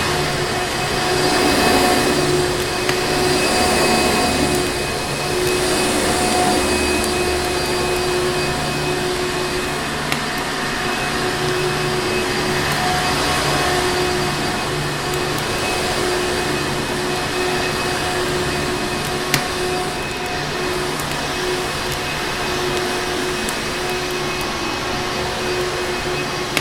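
Vacuum cleaner running steadily: a continuous rushing hum with a steady whine held on a few tones. Two short sharp clicks stand out over it, about a third of the way through and again about three-quarters through.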